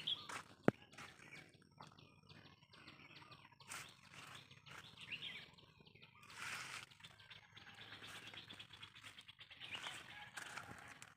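Faint birds chirping and twittering outdoors, short scattered calls, with a sharp click about a second in.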